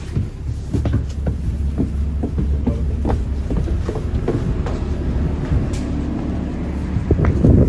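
Moving train heard from inside the carriage: a steady low rumble with irregular clicks and knocks. It cuts off sharply at the end.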